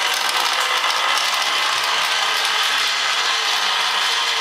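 Zero electric motorcycle's drivetrain running, a steady mechanical whirring with a fine, rapid clicking texture.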